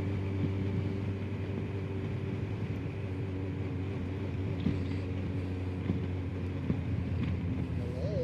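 Motorcycle engine running at a steady speed while riding, a constant drone that holds the same pitch throughout.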